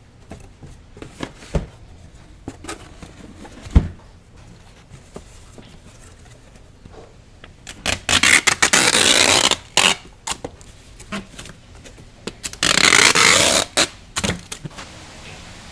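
Handling noises: a few light knocks, then two loud bursts of close rustling and scraping, the first about two seconds long and the second about one.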